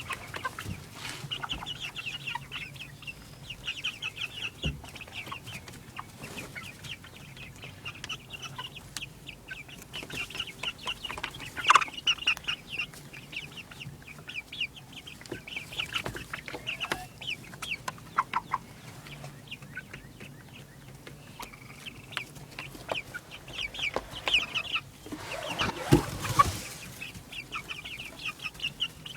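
A group of baby chicks peeping continuously, many rapid high-pitched cheeps overlapping. There is a sharp knock about twelve seconds in and a louder rustling noise near the end.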